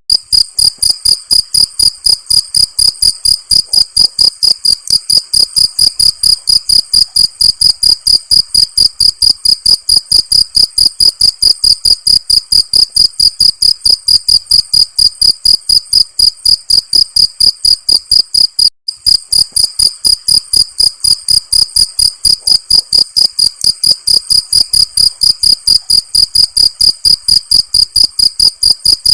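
Cricket chirping in an even, unbroken rhythm of about four high-pitched chirps a second, with one brief gap about two-thirds of the way through.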